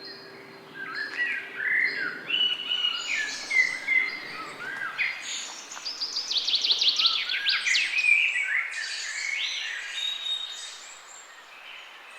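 Several songbirds chirping and singing in overlapping short phrases, with a quick run of falling notes in the middle.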